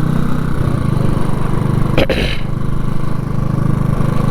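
Motorcycle engine running steadily while riding, with a brief sharp noise about two seconds in.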